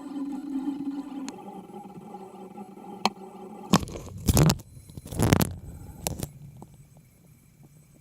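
Cetus 3D printer's stepper motors whining in steady pitched tones as it prints, the tones shifting about a second in and fading after. Midway, two loud scraping noises and a few sharp clicks.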